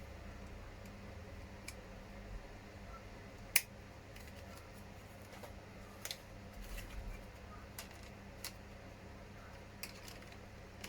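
Small injection-moulded plastic parts of a WPL C44KM RC truck cab being handled and pressed together: scattered light clicks and taps, the sharpest about three and a half seconds in, over a faint steady hum.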